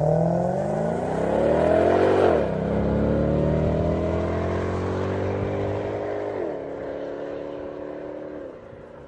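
Cadillac STS-V's supercharged 4.4-litre Northstar V8, running on an E85 tune, accelerating at full throttle. The revs climb quickly, drop at an upshift about two seconds in, climb more slowly to a second shift about six and a half seconds in, and drop again near the end as the sound fades.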